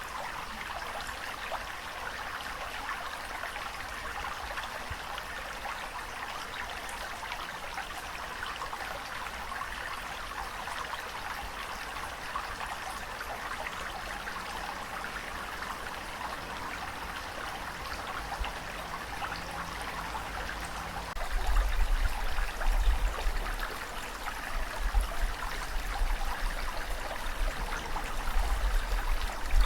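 Steady rushing of water, an even hiss with no rhythm. About two-thirds of the way in a deep rumble joins and the sound grows louder in uneven surges.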